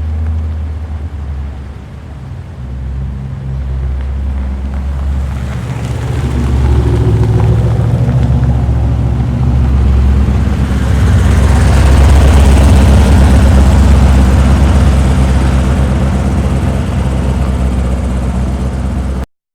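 Classic car engine running, growing steadily louder over the first twelve seconds or so with a deep low note, then holding until it cuts off abruptly near the end.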